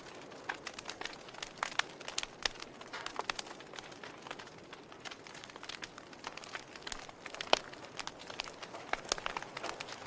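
Fire crackling: irregular sharp pops and snaps over a soft steady hiss, with one louder pop about three-quarters of the way through.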